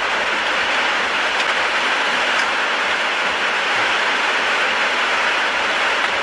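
A loud, steady rushing noise, even throughout with no rhythm or pitch, that cuts off suddenly at the end.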